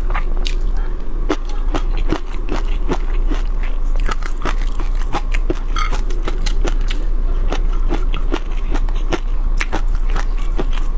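Close-miked chewing of crispy fried shrimp in chili sauce: a dense, irregular run of small crunches and wet clicks, with chopsticks scraping the plate near the end.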